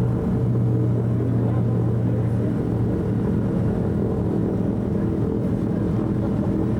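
Propeller aircraft piston engines running steadily: a loud, even drone with a low hum whose pitch shifts slightly about three seconds in.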